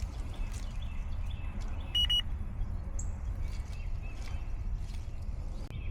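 Electronic refrigerant leak detector sounding faint ticks and one clear short beep about two seconds in, over a steady low rumble, as it is passed over the unit's solder joints. It does not go into alarm: no leak is found at these joints.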